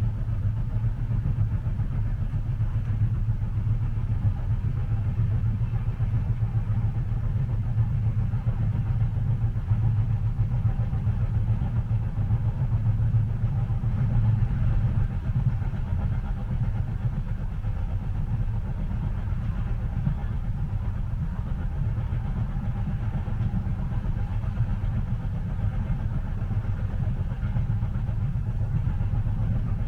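Steady low rumble of a moving train heard from inside the passenger cabin.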